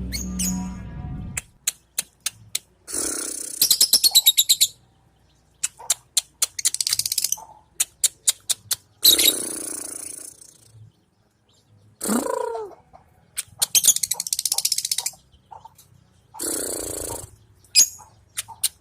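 Lovebird calling: sharp single chips between several high, harsh bursts of rapid chattering, each lasting about a second, with one call swooping down in pitch partway through.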